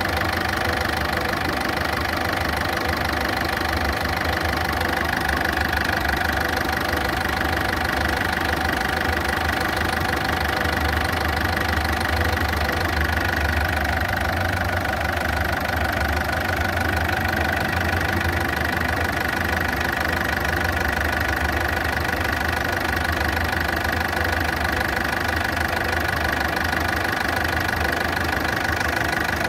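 Ford Fiesta's small turbodiesel engine idling steadily, loud and rough with a ticking in it. This is the ticking and harsh running that the video puts down to worn or faulty engine parts.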